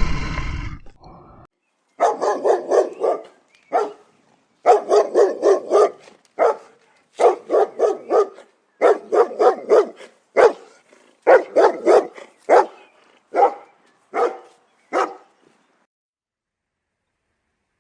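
A dog barking in quick runs of several sharp barks each, with short pauses between runs, stopping a couple of seconds before the end. In the first second and a half, a louder sound from the previous clip fades out.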